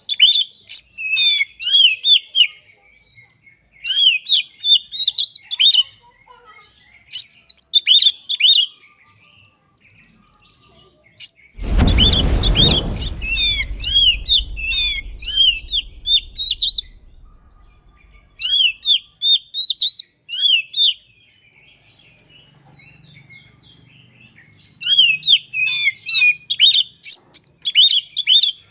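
Oriental magpie-robin (kacer) singing in bursts of quick, varied whistled notes with short pauses between phrases. About twelve seconds in, a sudden dull thump rings out and dies away over a few seconds while the bird keeps singing.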